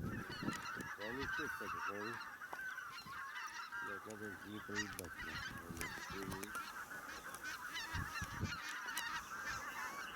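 A flock of wild geese calling, with many overlapping honks that carry on without a break.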